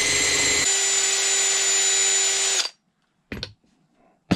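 Electric drill motor running at a steady speed with an even whine, with some rougher low rumble for the first half second or so; it cuts off about two and a half seconds in. Two short knocks follow.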